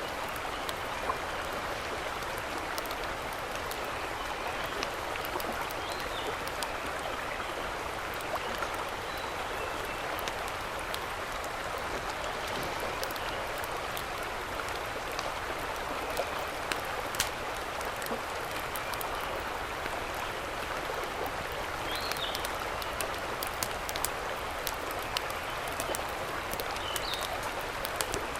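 Steady rush of flowing mountain-stream water, with scattered sharp clicks and a few brief faint high chirps over it.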